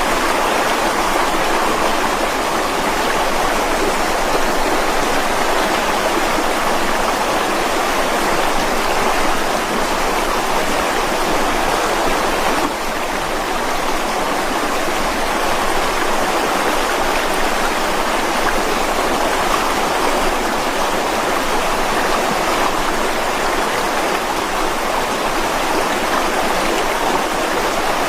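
Mountain stream running over rocks: a steady, loud rushing of water.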